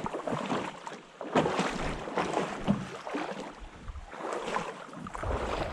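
Canoe paddle strokes in water: splashy surges of water noise that come and go every second or two.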